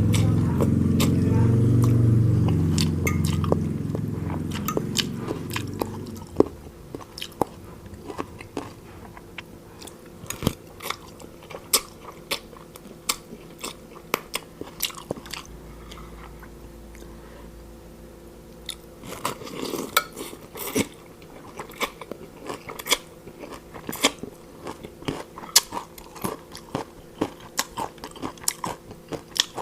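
Close-miked chewing and biting of food, with many sharp crunches. There is a louder, lower mouthful of chewing for the first six seconds, then a run of crisp crunches with a denser burst about two-thirds of the way through.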